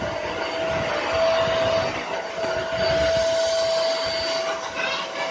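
Eureka Forbes mop-and-vac floor cleaner running: its motor and rotating roller make a steady hum with a constant whine as it is moved over the floor.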